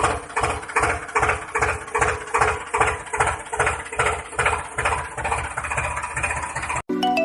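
Tractor engine chugging steadily at about three beats a second, cut off near the end by a few chiming music notes.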